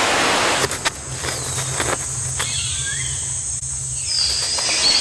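Rainforest ambience: insect noise with a few curving bird whistles in the second half, over a low steady hum.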